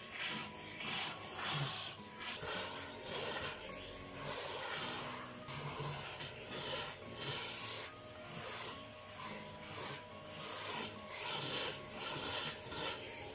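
Repeated rubbing strokes, about one a second, with faint music underneath.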